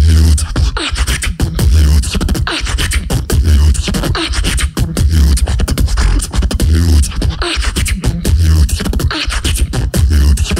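Solo beatboxer performing into a microphone: a steady beat of deep bass kicks about every second and a half to two seconds, with fast, sharp snare, click and hi-hat sounds in between.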